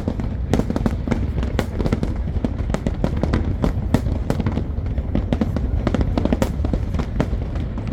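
Fireworks finale: aerial shells bursting in a rapid, unbroken barrage, several reports a second, with crackling over a constant low rumble.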